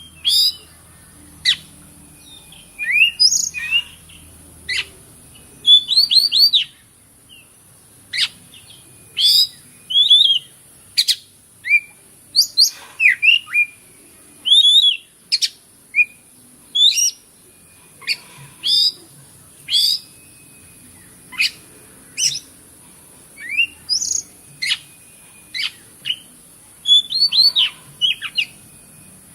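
Oriental magpie-robin (kacer) singing: a string of short, sharp whistled notes and chirps with quick pitch slides, about one phrase a second, over a steady high hiss.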